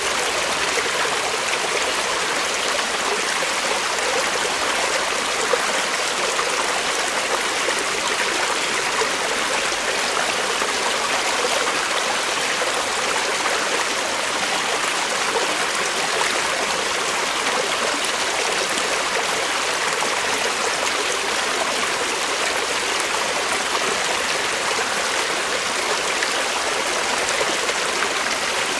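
Creek water flowing steadily over rocks, a continuous rushing and burbling with no breaks.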